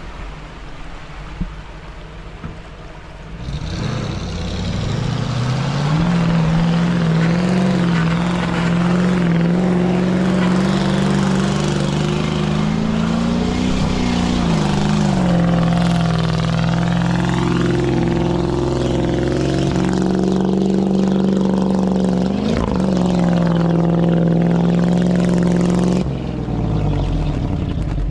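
GAZ-66 truck's V8 engine revved hard and held at high revs under heavy load while it pushes through deep clay mud. It picks up a few seconds in, wavers briefly midway, and drops back near the end before revving again.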